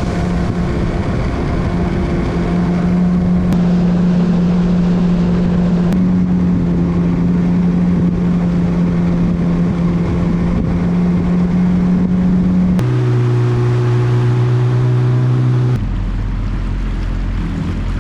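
Jet ski engine running steadily at cruising speed, with rushing water and wind. The engine pitch jumps abruptly a few times, dropping lower for about three seconds near the three-quarter mark.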